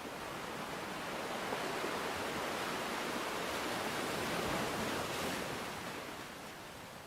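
A dense, rushing wash of water noise that swells to its loudest a little past the middle and eases off near the end.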